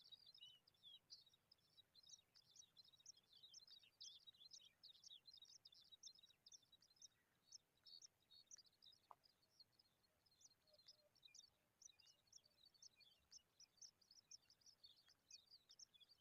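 Faint, continuous high-pitched chirping of small birds: many short chirps a second, overlapping without a break.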